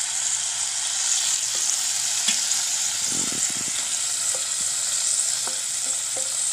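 Paneer cubes sizzling as they shallow-fry in hot oil in a non-stick pan, stirred with a wooden spatula that gives a few short knocks against the pan about three seconds in.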